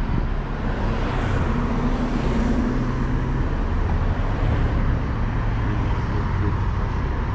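Street traffic: a car engine running nearby over a steady road rumble, with a faint engine hum showing about a second and a half in.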